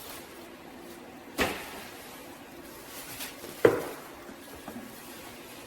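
Two sharp knocks about two seconds apart, the second one louder, each followed by a short ring, over a faint steady background hum.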